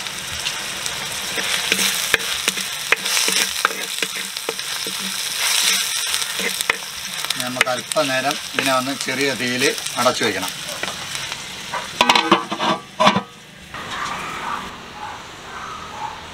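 Sliced onions and crushed shallots sizzling as they fry in hot oil in a pan, with a spoon scraping and clinking against the pan as they are stirred. A few louder clatters come about twelve to thirteen seconds in, and the sizzling is fainter near the end.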